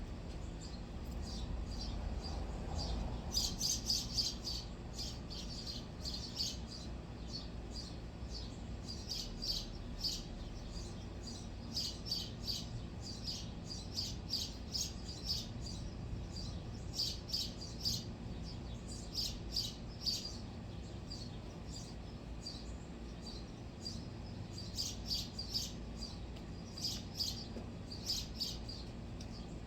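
Small birds chirping: quick, high chirps in repeated clusters every few seconds, over a low steady rumble.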